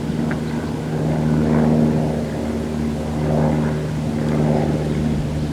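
An engine running steadily with an even, low hum, its higher sound swelling and easing every second or two.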